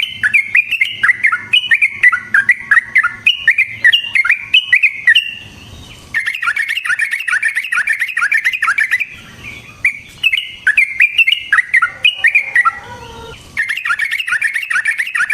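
Yellow-vented bulbul (trucukan) singing: long, fast runs of bubbling chirps, the rapid rolling song used as a lure to make other bulbuls answer. Short pauses break the song three times, and a lower falling note sounds near the end.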